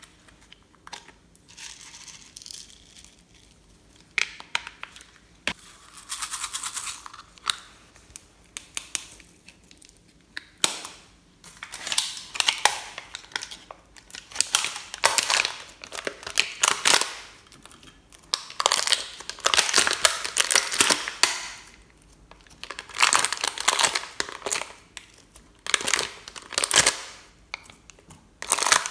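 Slime being pressed, stretched and poked by hand, crackling and popping with trapped air, in irregular bursts that get louder partway through.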